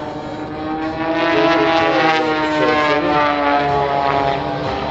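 Two aerobatic planes' Lycoming piston engines and propellers running at power, their pitch gliding slowly as the aircraft move past. The sound grows louder about a second in.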